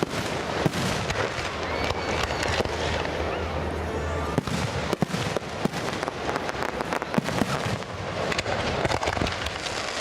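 Fireworks display going off: many sharp bangs and crackling pops in quick, irregular succession, overlapping one another, over a steady low rumble during the first half.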